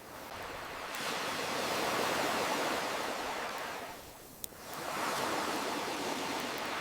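Ocean waves washing ashore, one swell rising and fading away about four seconds in before the next builds, with a single sharp crackle from a wood campfire at the quiet moment between them.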